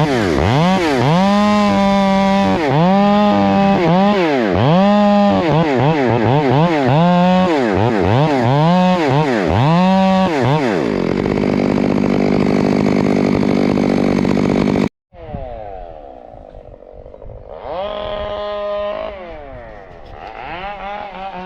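Chainsaw revving up and down about once a second, then held at a steady high speed for a few seconds as it cuts through windthrown timber. After an abrupt break it is heard fainter, idling and revving again.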